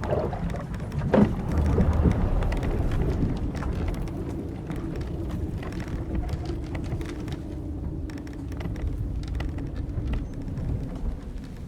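Old wooden sailing ship creaking at sea: a short sharp creak about a second in, then a long drawn-out groan of timber and rope through most of the rest, over a steady low rush of wind and waves with scattered small ticks.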